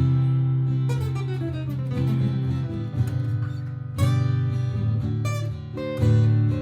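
Martin GPCPA4 acoustic guitar improvising over a looper-pedal chord backing: strummed chords with single-note melody lines, including a falling run about a second in.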